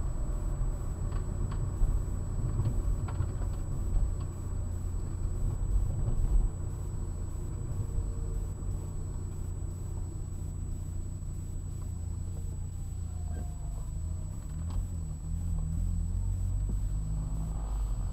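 Turbocharged four-cylinder engine and road noise of a 1999 Saab 9-3 Turbo, heard inside the car at low speed. A steady low rumble, a little louder over the first six seconds and then easing off.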